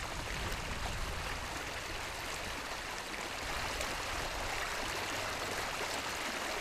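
Floodwater running fast and steadily, an even rushing wash of water with no breaks.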